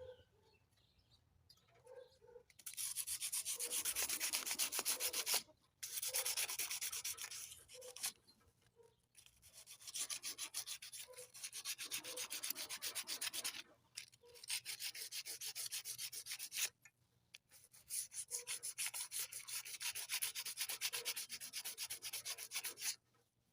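Sandpaper scrubbing rust off a lawnmower engine flywheel by hand, in five long spells of quick back-and-forth strokes with short pauses between. The rust had welded the flywheel in place and seized the engine.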